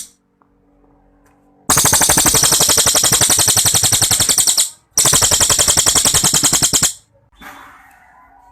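Cililin songbird singing its long rapid-fire trill: two long bouts of fast, evenly pulsed high notes. The first starts about two seconds in and lasts about three seconds, and the second follows a brief break and lasts about two seconds.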